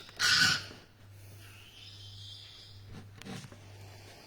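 Young hand-reared parrot giving one harsh squawk about half a second in, like the squawks just before it. Then only faint rustling and a few soft clicks.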